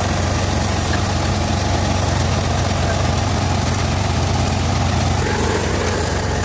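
Band sawmill running steadily, its motor giving a constant low drone while the mill works on teak wood.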